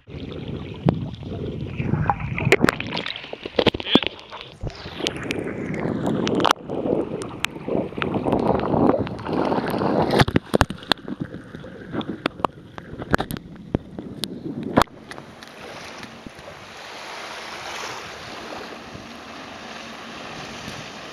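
Jet ski running on open water, with wind buffeting the microphone and irregular sharp knocks and gusts for about the first fifteen seconds. After that it settles into a steadier, even rush of wind and water.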